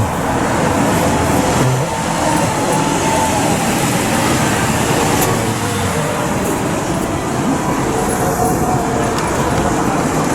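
Loud, steady rumble of vehicle noise with a faint whine of tones running through it.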